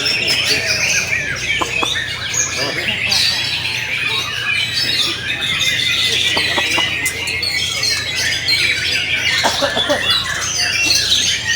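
Many white-rumped shamas (murai batu) singing at once in a competition line-up: a dense, unbroken chorus of rapid, overlapping whistled phrases and notes.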